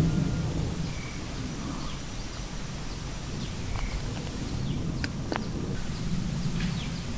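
Outdoor ambience: a steady low rumble with a few faint, short chirps, and two light clicks about five seconds in.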